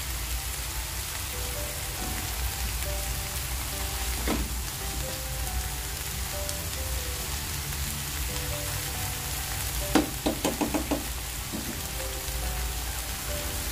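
Canned tuna masala frying in coconut oil in a non-stick pan: a steady sizzle. It is stirred with a spatula, with a single knock against the pan about four seconds in and a quick run of knocks about ten seconds in.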